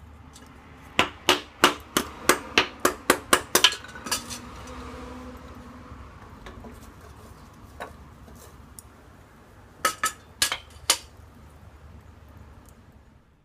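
A rapid run of about a dozen sharp metallic knocks and clinks, around four a second, then a short cluster of about five more a few seconds later, like metal cookware being handled on a small metal wood-burning stove.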